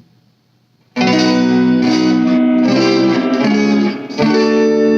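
Electric guitar through an all-tube amp, a short run of sustained chords starting about a second in. The tone is not as it should be, thinner and shriller than intended, which the player blames on a faulty solder joint.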